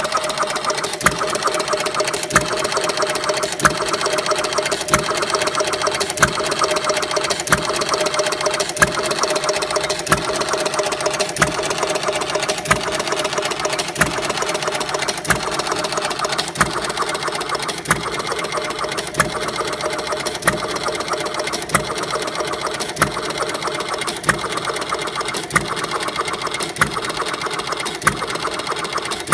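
One-third scale Galloway hit-and-miss gas engine running: a steady mechanical clatter with a sharp crack recurring evenly about every second and a quarter.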